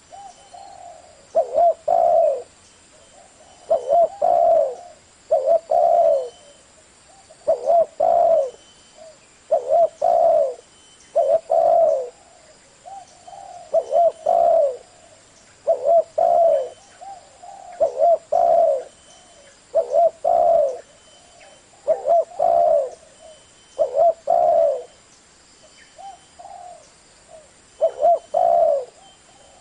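Spotted dove cooing over and over in the deep 'thổ' voice that trappers use as a lure call for wild doves. Each phrase is a short group of coo notes, repeated about every two seconds.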